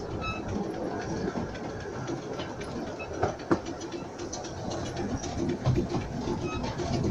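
Miniature railway train running, heard from inside a carriage: a steady rumble and rattle of the wheels on the track, with scattered clicks and two sharper knocks a little over three seconds in.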